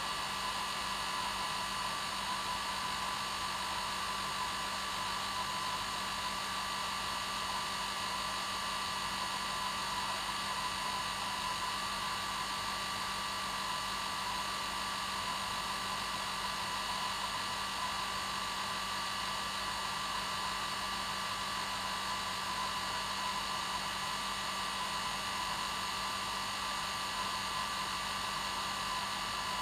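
Hair dryer running steadily: an even rush of air with a constant whining tone and a low hum in it, unchanging throughout.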